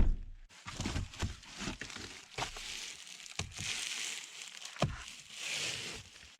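Insulated window shades being pressed into a car's window frames: crinkling and rubbing, with a string of knocks and bumps, the loudest right at the start.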